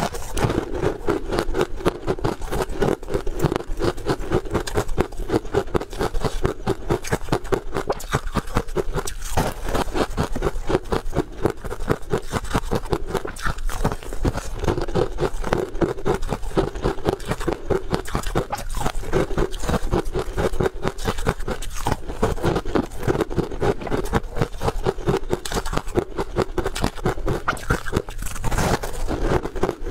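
Continuous crunching and chewing of a crisp fried tartary-buckwheat snack, picked up close by a clip-on microphone: a fast, unbroken run of crisp crunches.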